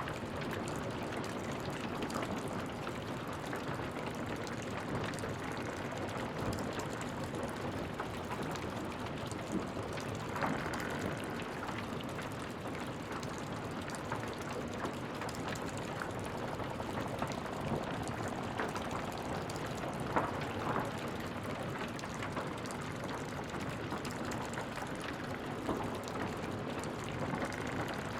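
Wood fire burning in a fireplace, crackling steadily with scattered sharper pops, a few louder than the rest.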